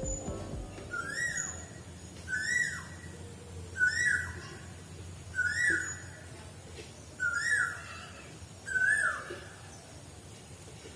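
A bird calling six times, about every one and a half seconds: each call is a short whistle that rises and then drops.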